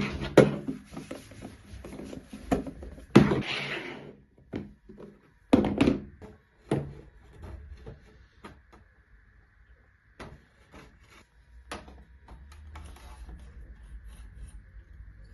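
Objects being handled and set down in a room: a run of knocks, thuds and short rustles, busiest in the first half, then a few scattered clicks.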